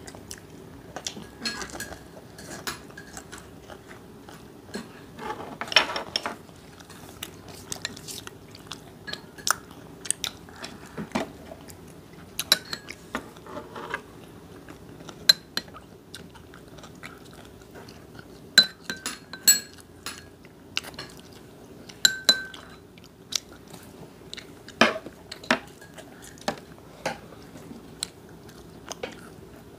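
Chewing and crunching on fried chicken, with many short, scattered clicks and clinks of dishes and cutlery.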